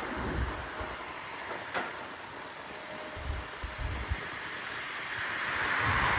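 Wind rushing over the microphone on a moving bicycle, with low gusts buffeting it and a single sharp click a little under two seconds in. Near the end the rush swells louder as a motor vehicle passes.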